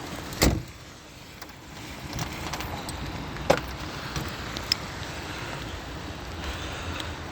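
A heavy thump about half a second in and a sharp knock about three and a half seconds in, with a few lighter clicks, over a steady low rumble.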